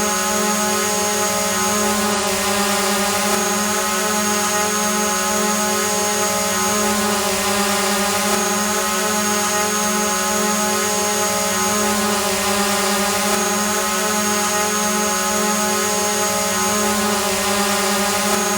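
Drone hovering, its motors and propellers giving a steady, unchanging buzz with many overtones.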